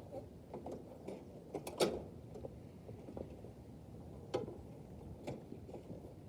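Quiet, scattered clicks and knocks. The loudest comes about two seconds in and another a little past four seconds.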